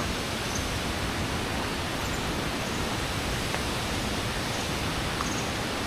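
Steady rushing noise of water, even and unbroken, with a few faint ticks.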